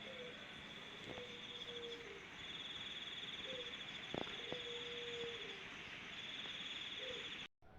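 Insects trilling steadily in a high-pitched pulsing chorus that pauses twice, with a few faint short tones lower down. The sound cuts out abruptly near the end.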